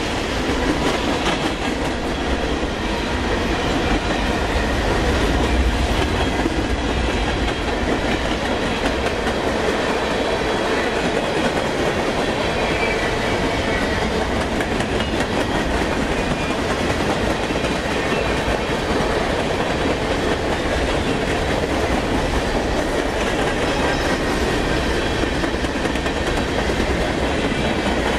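Freight train cars rolling past close by: a steady rumble of steel wheels on rail, with a continuous rapid clickety-clack as the wheels cross the rail joints.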